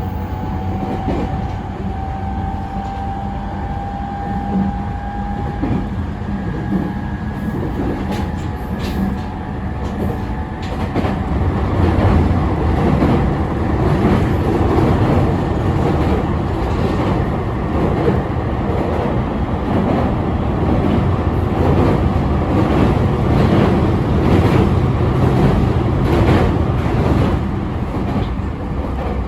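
E217 series electric train running, heard from inside the car: a faint motor whine rising slightly in pitch over the first few seconds, then louder rolling noise with wheels clicking over rail joints from about ten seconds in.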